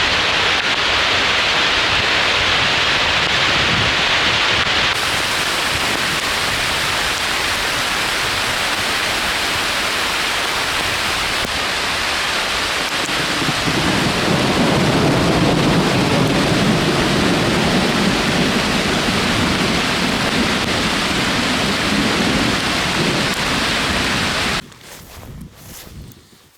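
Steady heavy rain, with a low rumble of thunder joining about halfway through. It stops abruptly near the end.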